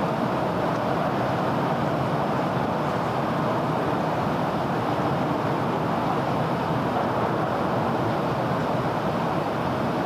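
Steady urban road traffic noise, a continuous even wash of many vehicles with no single car standing out.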